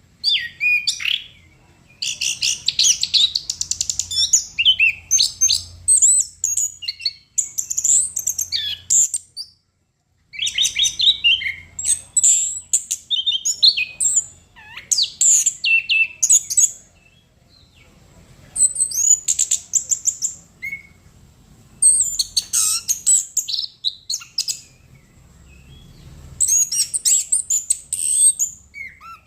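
Orange-headed thrush singing in full voice: a long run of fast, varied high-pitched phrases and trills, separated by short pauses.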